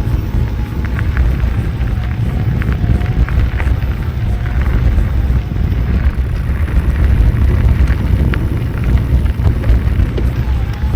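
Wind rushing over the microphone and rumbling of tyres on a dirt trail, with scattered clicks and rattles from a moving mountain bike.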